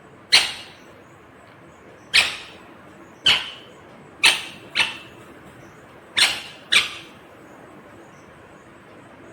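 Indian ringneck parrot giving short, sharp screeching calls, seven in all, spaced irregularly with some coming in quick pairs.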